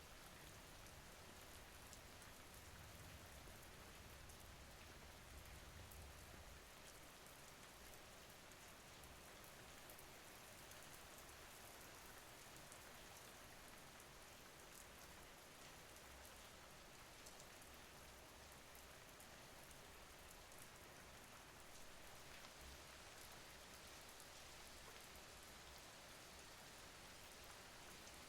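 Soft, steady rain, faint and even, with scattered light drop ticks.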